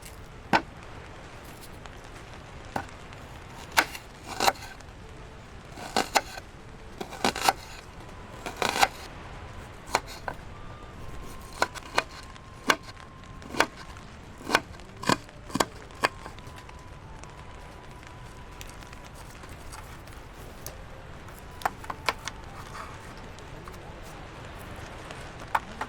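A run of sharp, irregular knocks, often in quick pairs, about twenty in the first two-thirds and then a few scattered ones near the end, over a steady background hiss.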